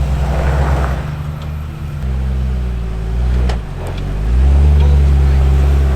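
Off-road truck engine revving, its pitch dipping and rising, then louder and higher from about four seconds in. A couple of sharp knocks come around the middle.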